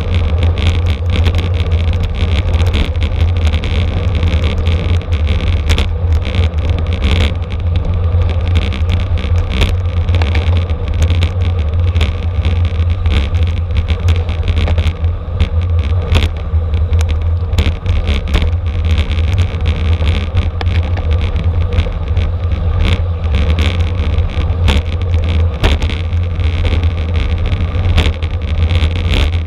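Wind rushing over the microphone of a camera on a bicycle ridden at race speed, a steady low rumble with many small clicks and rattles from the road and bike.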